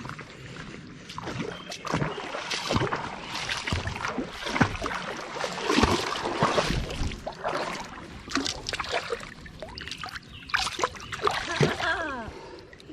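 Irregular splashing and sloshing of water with knocks and rustles as a small hooked brook trout is brought in and landed.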